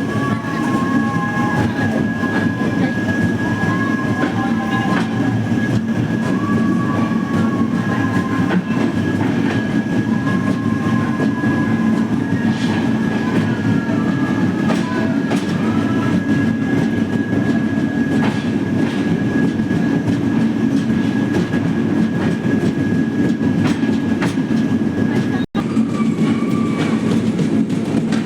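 Passenger train running along the track, heard from on board: a steady low running noise with a thin steady whine above it. The sound cuts out for an instant near the end.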